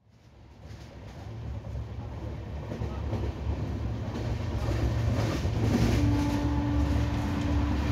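Onboard sound of an Indian Railways LHB-coach train running, fading in: a steady low rumble of wheels on the rails with faint knocks, which the uploader puts down to flat wheels. About six seconds in, a steady tone starts and holds.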